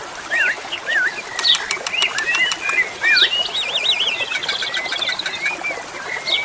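Asian pied starling (jalak suren) singing: a fast, varied run of whistles that swoop up and down in pitch, mixed with short clicks and chatters.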